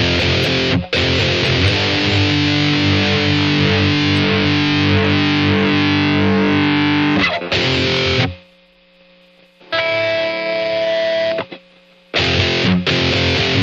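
Epiphone SG Special electric guitar with P90 pickups, played through a Boss ME-80 multi-effects with heavy distortion. It plays chopped power chords with short stops, then a held chord that rings for several seconds. About eight seconds in the playing drops away, a single held note rings out briefly, and the chords start again near the end.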